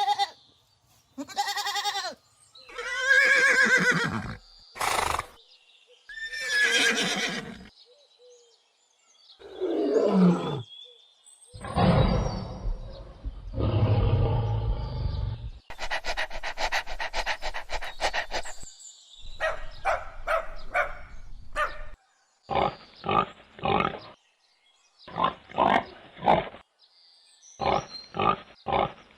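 A series of different animal calls played one after another: long pitched calls at first, then a low rough roar-like call, a fast rattling stretch, and groups of short repeated calls near the end.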